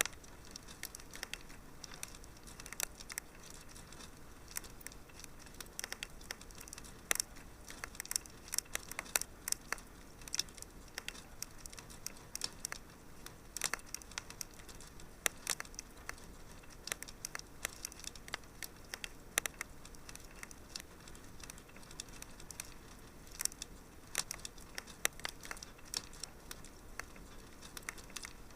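Wood fire crackling in a fireplace: irregular sharp pops and snaps over a faint steady hiss, sometimes several in quick succession.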